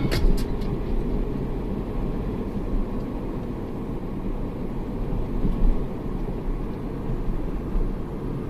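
Car driving along a road, a steady low rumble of tyre and engine noise.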